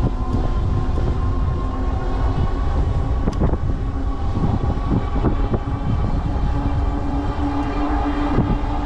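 Heavy wind buffeting the microphone as a rumble, over the steady whine of a Bafang rear hub motor and the tyres of a fat-tire e-bike riding hard into a strong headwind under pedal assist and throttle.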